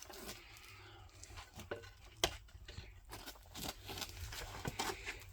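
Scattered clicks and knocks from handling a rimfire rifle and shooting gear between shots, with one sharper click about two seconds in.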